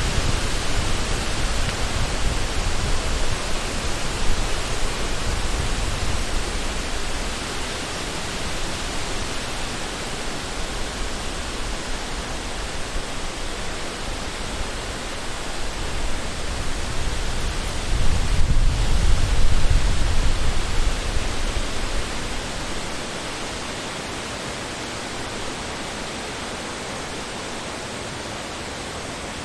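Wind blowing through a forest: a steady rush with strong low gusts near the start and again about two-thirds of the way through, easing off towards the end.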